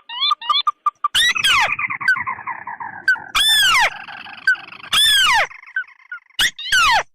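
Recorded crake calls played as a bird lure, mixing ruddy-breasted crake and white-browed crake. A quick run of short clipped notes opens it, then a chattering trill that falls in pitch, then loud down-slurred calls repeated about every one and a half seconds.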